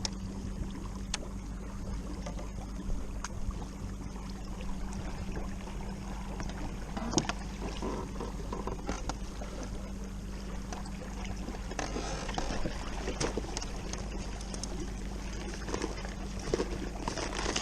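Kayak underway on a lake while trolling: a steady low hum with water and wind noise, and occasional small knocks from gear on the hull.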